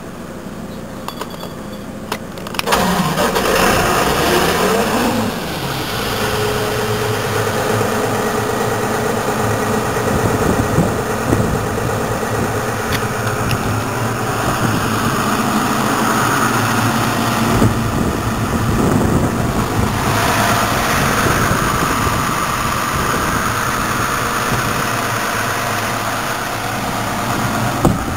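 The Cummins six-cylinder turbocharged diesel engine of a Compair Holman C210TS-12 portable compressor starts up suddenly about three seconds in and settles into a steady run. Its sound changes and gets brighter about twenty seconds in.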